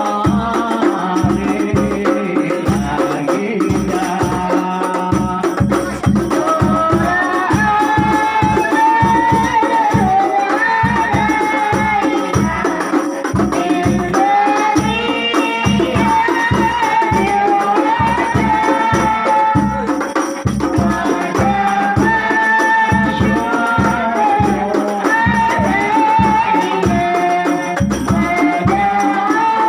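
Sholawat: a singing voice carries a wavering Arabic devotional melody in praise of the Prophet over a fast, steady beat of hand-struck frame drums with jingles.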